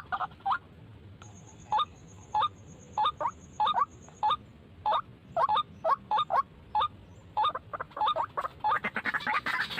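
White-breasted waterhen (ruak-ruak) calling: a string of short, harsh notes about twice a second, some in quick pairs, coming faster and denser near the end.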